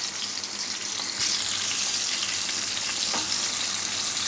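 Food frying in hot oil in a pan, a steady sizzle that grows louder about a second in.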